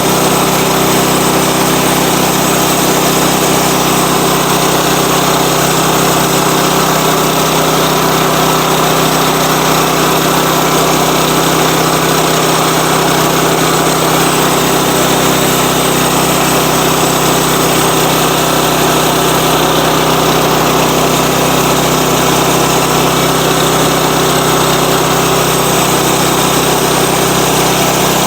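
Sawmill's engine running steadily, with no break or change in its note.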